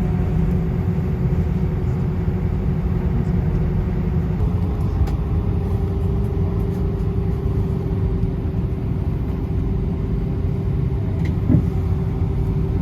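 Cabin noise of an Airbus A320: a steady low engine rumble with a steady hum whose pitch steps up slightly about four seconds in. A short knock sounds near the end.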